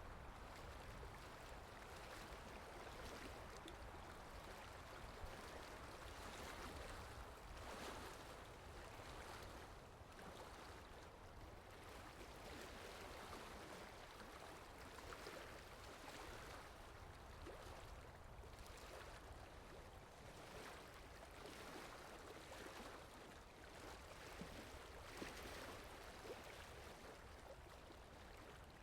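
Faint, soft swishes of a paintbrush moving over watercolour paper, coming and going irregularly over a low hiss.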